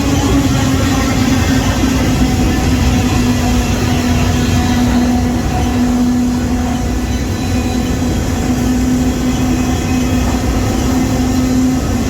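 Freight train running: a loud, steady rumble with a droning tone that sinks slightly in pitch over the first few seconds.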